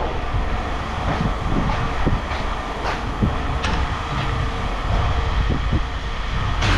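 Steady low mechanical rumble with scattered knocks and rattles.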